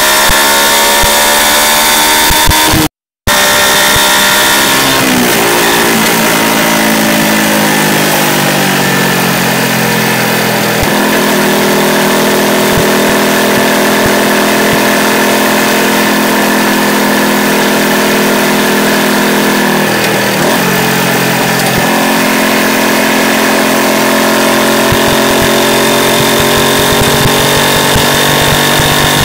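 Yamaha YZF-R125's single-cylinder four-stroke engine, run without its anti-pollution (EGR) valve and heard from a microphone under the bike while riding. The revs climb over the first few seconds, the sound cuts out for a moment, then the revs fall and settle to a steady cruise, with a short dip about twenty seconds in.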